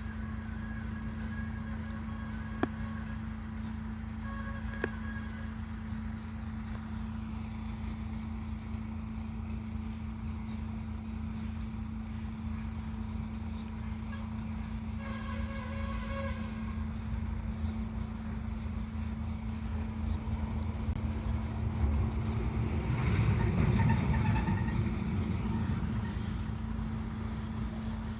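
A sparrow gives single short high chirps every second or two, over a steady low hum and rumble that swells for a few seconds about 23 seconds in.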